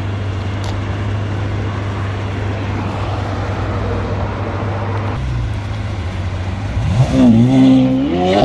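Car engines running on a street: a steady low engine drone for about five seconds, then an engine revving up, rising in pitch about seven seconds in and loudest near the end.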